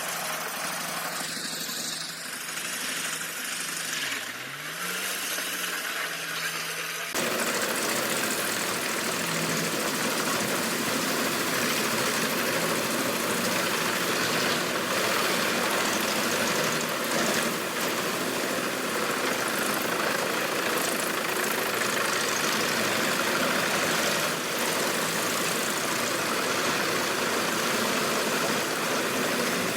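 Wood chipper engine running. About four seconds in its pitch dips briefly and comes back up. About seven seconds in the sound switches abruptly to a louder, noisier, steady machine sound.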